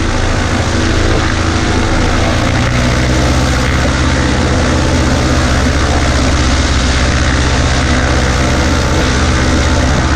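Cessna 140A's four-cylinder piston engine and propeller running steadily, the low engine hum growing stronger about two and a half seconds in.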